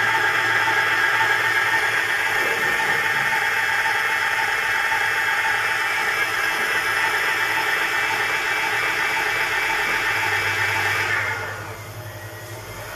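Brushless geared hub motor whirring steadily at speed with a high gear whine. About eleven seconds in, it winds down, its pitch falling and the sound getting quieter.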